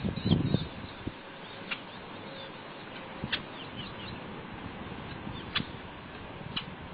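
Short, sharp bird chirps every second or two over a steady outdoor hiss, with a few low thumps at the start.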